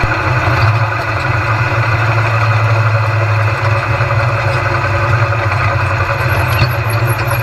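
Stock car's V8 engine running at a steady pitch, loud and unbroken throughout.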